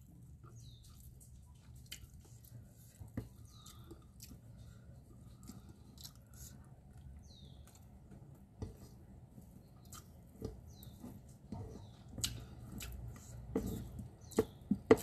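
A person chewing a mouthful of rice and salted fish eaten by hand, with many small mouth clicks throughout and a few sharper, louder clicks near the end.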